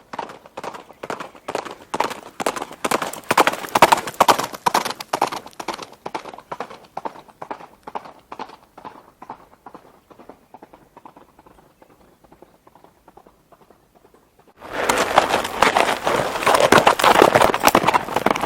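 Horse hooves clip-clopping in a steady rhythm, growing louder over the first few seconds and then fading away as the horse passes. Near the end a much louder, denser clatter cuts in suddenly.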